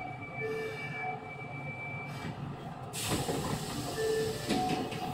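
Osaka Metro 66 series refurbished electric train heard from inside the car: steady running rumble with faint whining tones, then about three seconds in a sudden loud hiss of compressed air.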